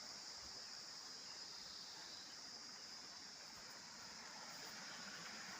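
Faint, steady high-pitched insect chorus over a soft, even hiss of rural outdoor ambience.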